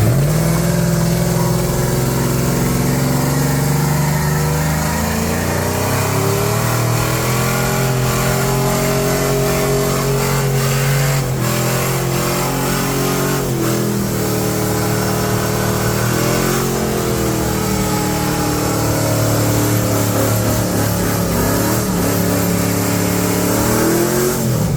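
A vehicle engine running and revving, its pitch dropping and climbing again several times.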